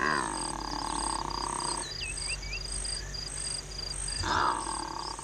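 Secretary birds groaning, a courtship call: one long call that drops in pitch and then holds for nearly two seconds, and a second, shorter call near the end. A high, evenly pulsing insect trill runs behind them.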